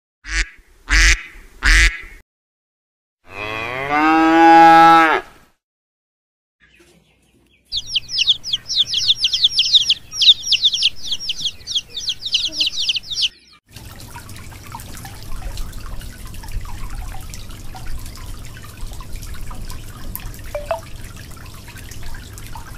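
Three short animal calls, then a long moo, then a brood of chicks peeping rapidly and without a break for about six seconds, high-pitched. A steady low hiss follows to the end.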